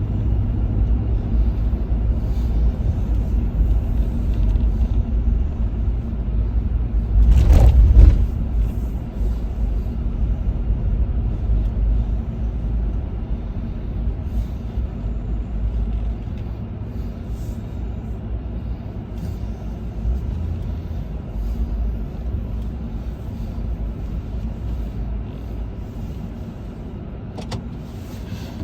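Steady low engine rumble that fades gradually over the second half, with a brief louder rushing burst about seven to eight seconds in.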